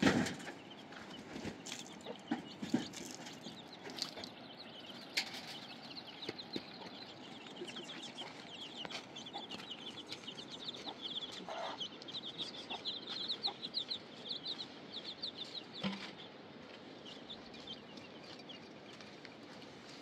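Birds calling: a fast run of short high chirps, several a second, through the middle stretch, with a few scattered knocks.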